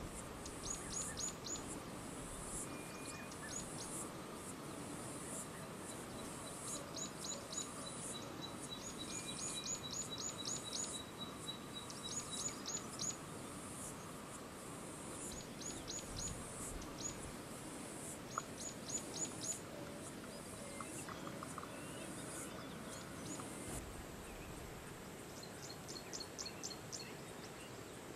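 A bird calling over and over in short runs of four to six quick, high, clipped notes every second or two, over a steady high hiss.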